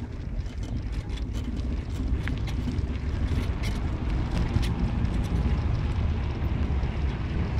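Car on the move: a steady low road and engine rumble with scattered small clicks and rattles.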